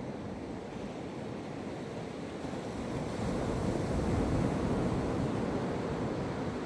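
Atlantic Ocean surf washing onto the beach: a steady hiss of water that swells as a wave breaks about three to four seconds in, then eases off.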